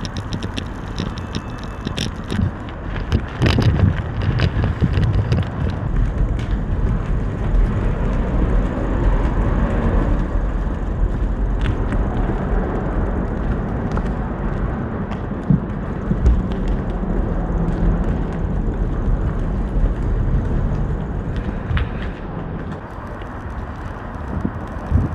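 Riding noise from a moving e-bike: a steady low rumble of wind and tyres on the road, with scattered clicks and rattles from bumps.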